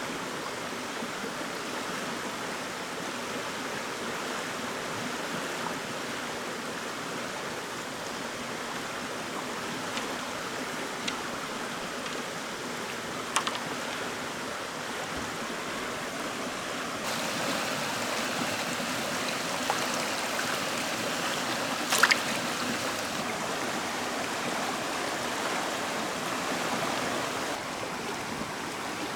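Steady rush of flowing stream water, with a few short sharp knocks or splashes, the loudest about two-thirds of the way through. The water grows a little louder for about ten seconds partway through.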